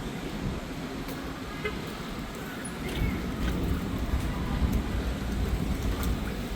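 Street traffic noise: a steady rumble of vehicles, with a few faint clicks and a brief high squeal about three seconds in.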